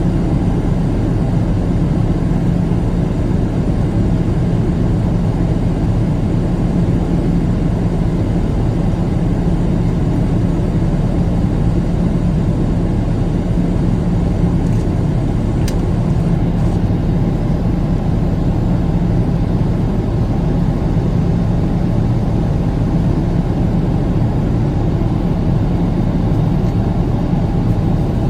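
Steady jet airliner cabin noise: engine and rushing airflow with a low, even hum that does not change.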